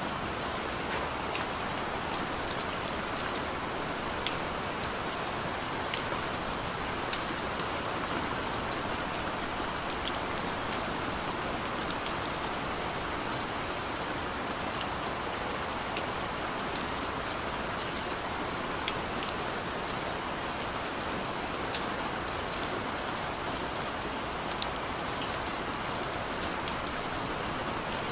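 Steady rain falling on a surface, with a dense even hiss and many small scattered drop ticks and patters.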